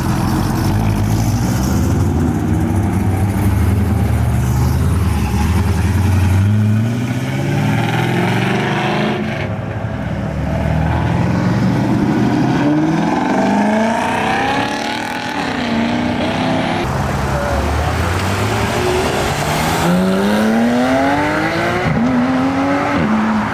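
Performance car engines and exhausts pulling away, a low rumble first, then several hard accelerations with the revs climbing, the pitch rising through each gear.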